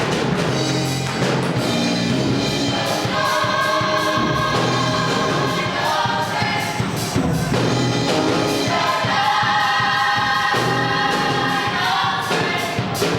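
Live gospel music: several voices singing together in harmony, holding long notes, over a band with a steady drum beat.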